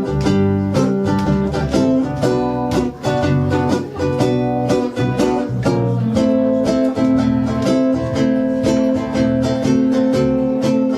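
Ukuleles strumming the instrumental intro to a song, with a steady rhythm and a change of chord about six seconds in.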